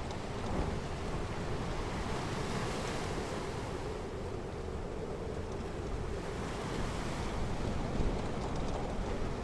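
Ocean surf washing onto a beach: a steady rush of waves with wind blowing over the microphone.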